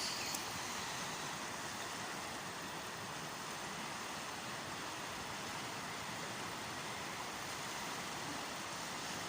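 River water flowing, a steady even rushing noise.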